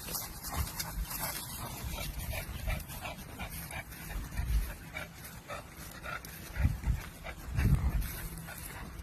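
Dog panting in a quick, steady rhythm, with a few low thumps near the end.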